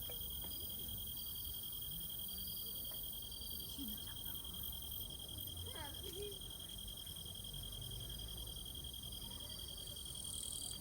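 Insects chirping in a steady, pulsing high-pitched trill, with a second fainter chirp coming and going above it and faint voices murmuring underneath.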